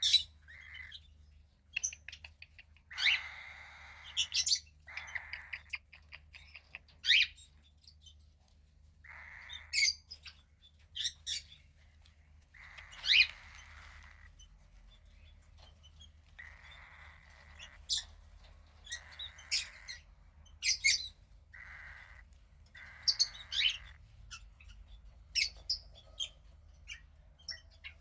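Cockatiel chick about 15 days old, calling again and again. It gives hoarse, hissing calls about a second long, mixed with short sharp chirps.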